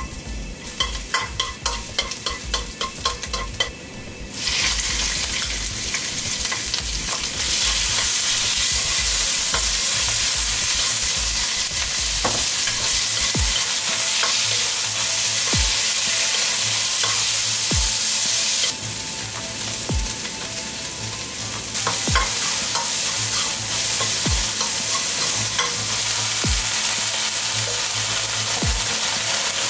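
Garlic crackling lightly in hot oil in a wok, then a loud, steady sizzle from about four seconds in as sliced beef fries and is stirred with a spatula. The sizzle eases for a few seconds about two-thirds of the way through and then comes back up.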